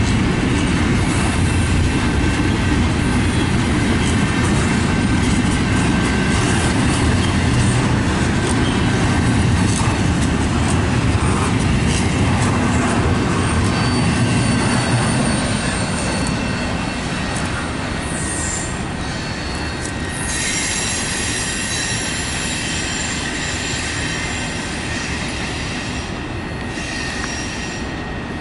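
Double-stack intermodal well cars rolling past with a steady rumble and wheel clatter, the wheel flanges squealing in thin high tones. The rumble eases off about halfway through, and the squeal grows as the end of the train takes a curve.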